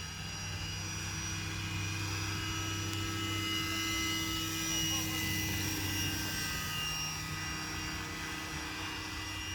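Vario scale Eurocopter EC135 model helicopter running steadily, a constant low hum under several steady high whines from its rotor and fenestron tail fan, whose pitch drifts slightly partway through.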